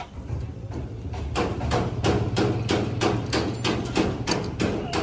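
Repeated hammer blows in a quick, even rhythm of about four strikes a second, starting about a second in, over a steady low hum.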